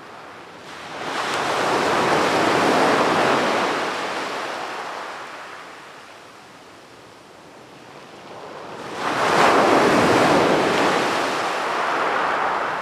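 Ocean waves breaking on a beach: two waves rush in and wash out, one starting about a second in and another about nine seconds in.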